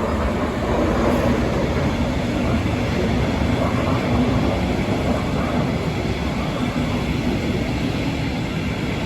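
Regional express train rolling past on the tracks: a steady rumble of wheels on rail.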